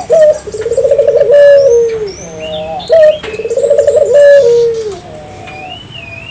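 Ringneck dove (burung puter) cooing: two loud rolling coo phrases, each opening with a short rising note and ending in a long falling tone, after which it goes quieter. Small birds chirp in higher, shorter notes alongside.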